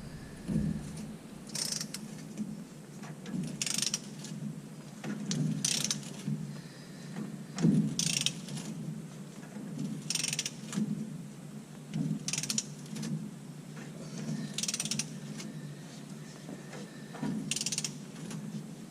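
Socket ratchet clicking in short bursts about every two seconds, on its return strokes, as the nut on the rear differential's pinion is worked loose to get at the leaking pinion seal.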